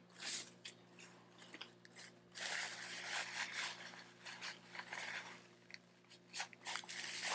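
Close-miked chewing and biting of a taco: soft crunching, wet mouth sounds and small clicks, heaviest a few seconds in.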